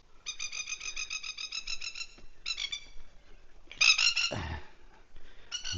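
Plovers giving rapid, harsh chattering alarm calls in several bursts, the loudest about four seconds in: their alarm as they swoop to defend hidden chicks. A brief low thump follows the loudest burst.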